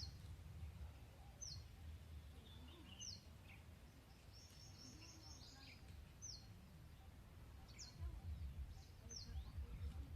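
A bird repeating a short, high, downward-slurred call about every second and a half, with a quick run of notes near the middle, faint over a low rumble.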